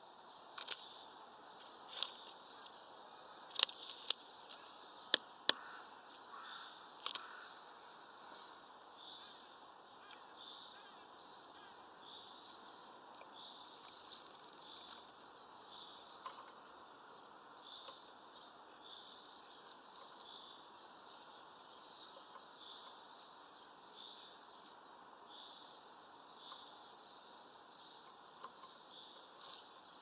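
Small birds giving quick, high chirps over and over throughout. Over the first seven seconds or so, about eight sharp taps come from a great tit pecking at sunflower seeds on the wooden feeder.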